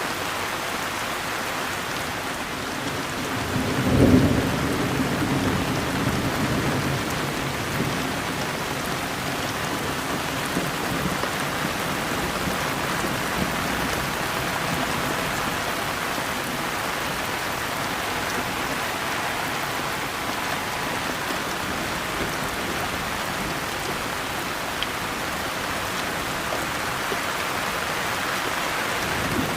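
Steady rain falling with an even hiss, and a clap of thunder about four seconds in that rumbles off over the next few seconds.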